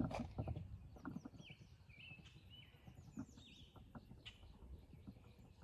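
Songbirds chirping in a run of short, quick calls in the middle, over faint low background noise.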